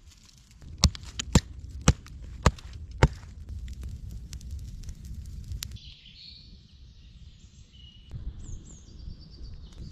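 Five sharp blows of a hand tool striking wood, about two a second, followed by a bird chirping in the second half over a low rumble.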